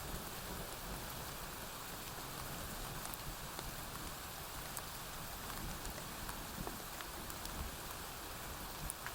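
Steady rain falling on a porch roof, an even hiss with scattered small ticks of drops.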